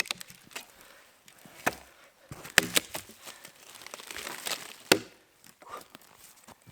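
A few sharp knocks at uneven intervals, the loudest about two and a half and five seconds in, with quieter rustling between them.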